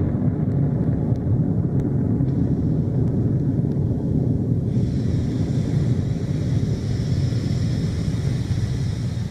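Rocket Lab Electron first stage's nine Rutherford engines firing at liftoff: a steady, loud, deep rumble, with a higher hiss coming in about five seconds in.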